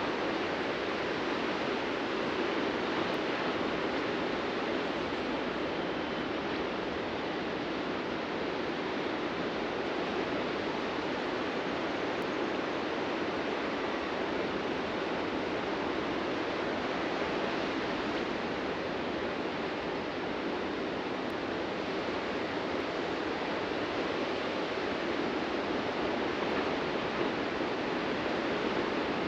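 Ocean surf breaking and washing onto a beach: a steady, even rush of waves that swells and eases only gently.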